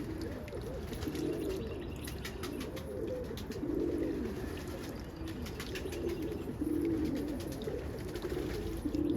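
Several roller pigeons cooing, their low coos overlapping one after another without a break.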